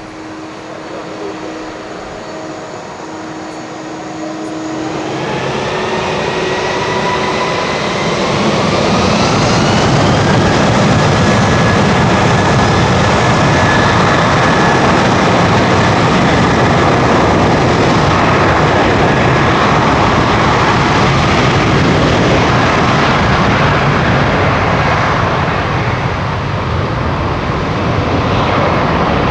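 Airbus A330-200's twin Pratt & Whitney PW4000 turbofans spooling up for takeoff: a whine rises in pitch and the sound grows louder over the first several seconds, then settles into a loud, steady jet rush at takeoff power.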